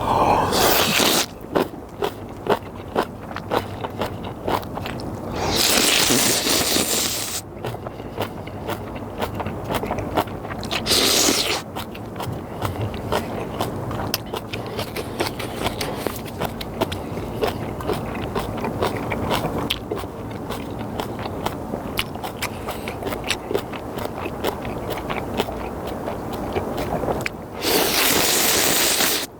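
Instant ramen being eaten close to the microphone: loud noodle slurps four times, one right at the start, two in the first dozen seconds and one near the end, with steady chewing clicks in between.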